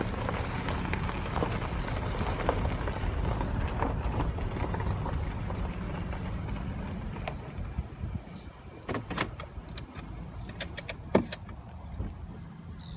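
Motor vehicle engine running with a steady low rumble that fades away about seven seconds in, then scattered clicks and one sharp knock near the end.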